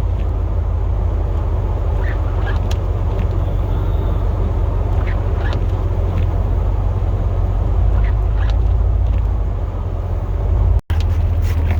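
Chevrolet Silverado plow truck running, heard from inside the cab as a steady low drone, with scattered short squeaks and ticks over it. The sound drops out for an instant near the end.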